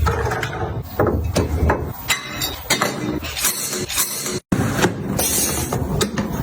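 Close-up handling noise from containers and packaging being moved and set down: a string of sharp knocks and clicks over steady rustling, broken by a short cut about halfway through.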